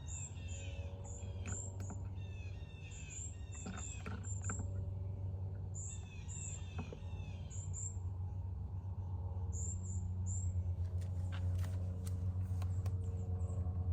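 Small birds chirping in quick, repeated bursts of short falling notes for most of the first eight seconds, over a steady low hum. A few sharp clicks follow near the end.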